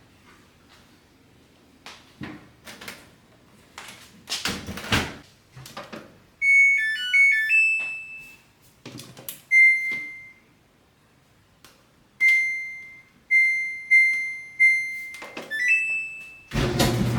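Knocks and clatter of a laundry machine being loaded and its door handled. Then come its control-panel beeps: a short stepping jingle, single button beeps, a row of four even beeps and a rising two-note chime. Near the end the machine starts running with a steady hum.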